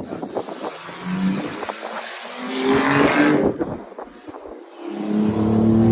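Race car engines passing by: one car's engine builds to a peak about three seconds in and cuts away sharply, and another comes up loud from about five seconds in.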